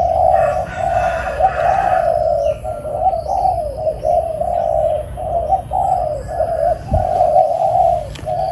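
Spotted dove cooing steadily in a long run of short coos with brief gaps. A single low thump comes about seven seconds in.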